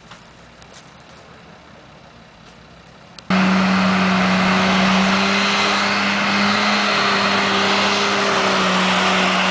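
An off-road 4x4's engine working in deep mud. It is faint at first, then about three seconds in a loud, steady drone cuts in abruptly and holds one pitch.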